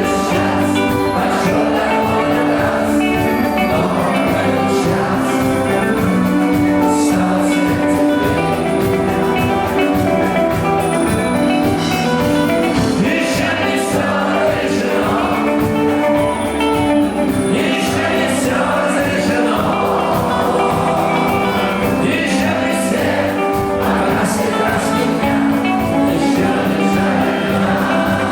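A rock band playing live, with singing over guitar and drums.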